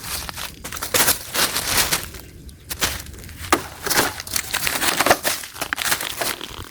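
Irregular crunching and crinkling as trash is rummaged through by hand, many sharp crackles at uneven intervals.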